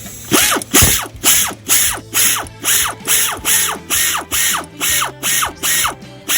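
Hand ratchet wrench tightening the serpentine-belt tensioner bolt on a Jeep Cherokee XJ's 4.0 engine: quick back-and-forth strokes, about two a second, each a burst of ratchet clicking.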